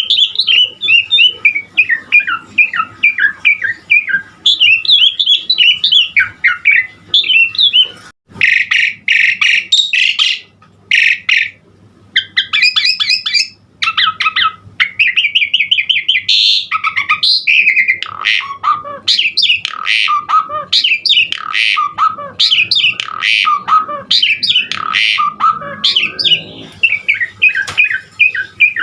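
Pied starling (jalak suren) singing a long, varied song of rapid chattering and whistled phrases, with a stretch of harsher, rasping notes partway through and brief pauses.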